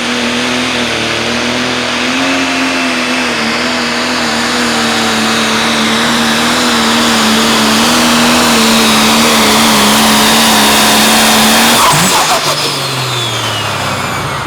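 Pro Stock pulling tractor's turbocharged diesel engine running flat out under load, a steady high-revving note with a high whine, growing louder over about twelve seconds. Then the throttle comes off and the engine and whine wind down, falling in pitch.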